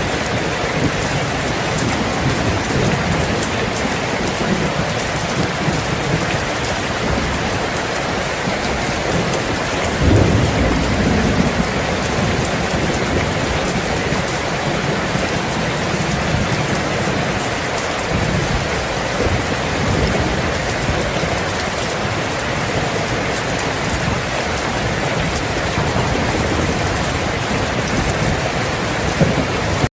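Steady heavy rain falling, with low rolling rumbles of thunder underneath; the loudest rumble comes about ten seconds in.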